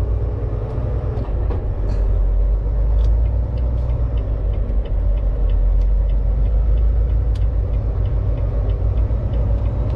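Steady low rumble of a Volvo VNL 860 semi truck's engine and tyres heard from inside the cab while driving, with a faint regular ticking running through it from about three seconds in.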